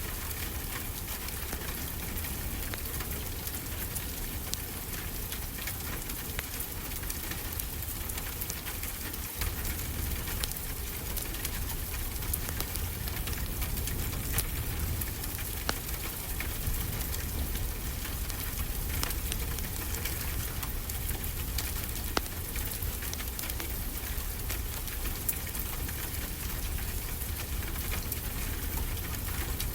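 Steady wash of ocean waves with a low rumble, under frequent sharp crackles and pops of a wood fire.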